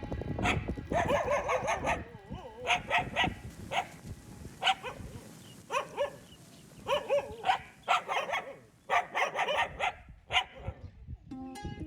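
Dogs barking in short runs of barks with brief pauses between them, and music coming in near the end.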